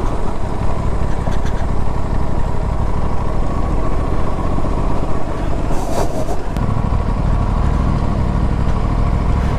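Aprilia RS 457's parallel-twin engine running steadily as the bike rides over a rough, downhill dirt track. There is a short clatter about six seconds in, and the low rumble grows a little stronger after it.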